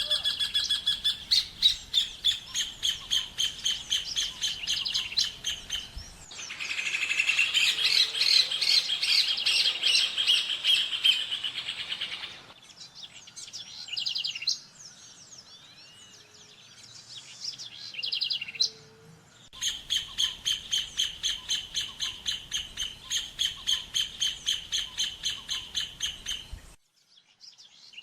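Rufous hornero song: long runs of loud, ringing notes repeated about three times a second, in several separate bursts. Between the bursts there is a quieter stretch of scattered chirps.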